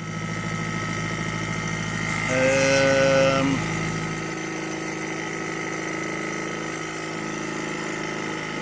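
Old 12-volt air-ride compressor running with a steady electric-motor hum, louder for about a second between two and three and a half seconds in. It is slow to build pressure, which the owner first takes for a dead unit.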